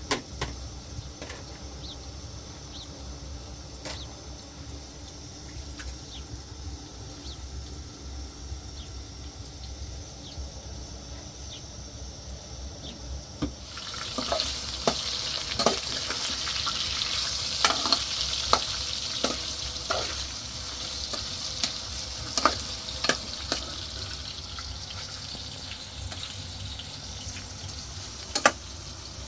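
Sizzling as of food frying in a hot pan, starting suddenly about halfway through, with scattered clinks of a utensil stirring.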